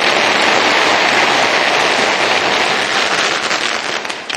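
Pyrotechnic ignition of the festival bonfire spraying out with a loud, dense crackling hiss, which starts to die down near the end.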